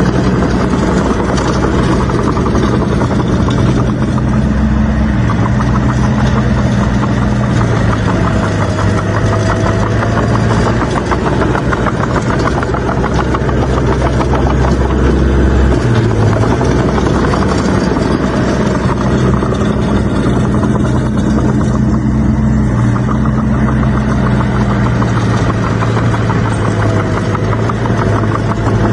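Heavy diesel engine of earthmoving machinery running loudly under varying load, its pitch stepping up and down every few seconds as the throttle and load change.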